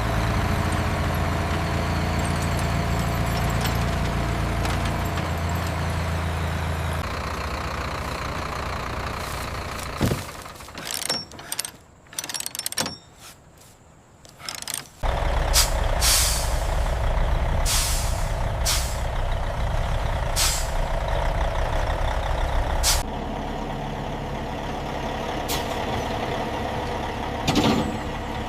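Heavy diesel vehicle engine running steadily, with a quieter broken stretch near the middle, then running again with several short, sharp hisses like air-brake releases.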